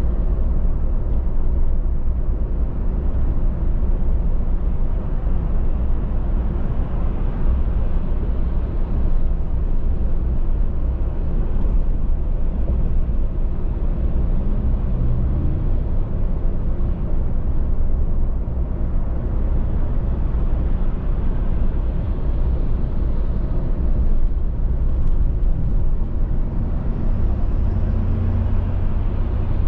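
Car driving at road speed: a steady low rumble of tyre and engine noise.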